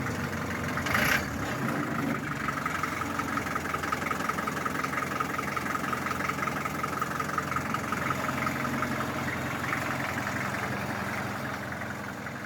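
Land Rover 88 Series III engine idling steadily, with a short hiss about a second in; the sound fades out near the end.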